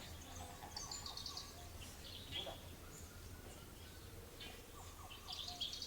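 Faint calls of several small wild birds: short high chirps and a few lower notes scattered through, over a steady low hum.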